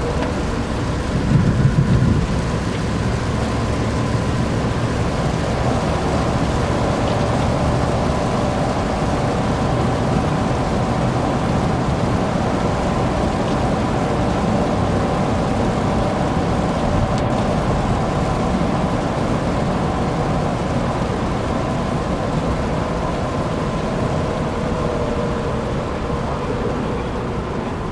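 Inside a Chevrolet Suburban's cabin while it is driven on a wet track in the rain: steady low engine and tyre rumble mixed with the hiss of rain and spray. A louder low rumble swells briefly about a second and a half in.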